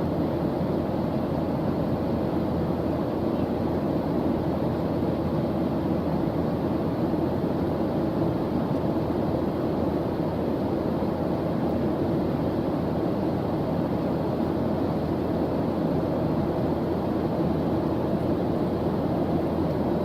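Steady white-noise track, an even rushing hiss weighted toward the low end rather than sharp and hissy, unchanging throughout.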